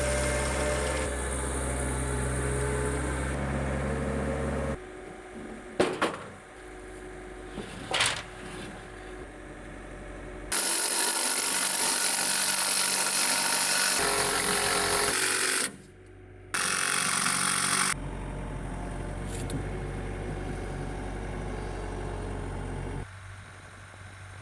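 Metal fabrication noise in several abrupt segments: first a steady machine hum, then a few sharp knocks. After that come two stretches of loud, even, hissing power-tool noise, and the clip ends with a quieter steady hum.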